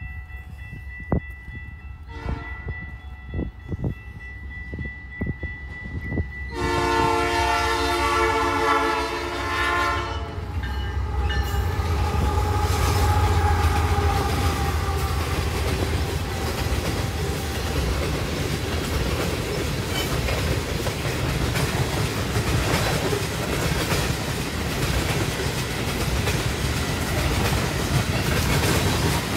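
Canadian Pacific freight train passing close by. The lead diesel locomotive sounds one long horn blast about six seconds in, and the pitch drops as it goes by. Then the diesel locomotives rumble past and a string of tank cars rolls by with wheels clicking over the rail joints.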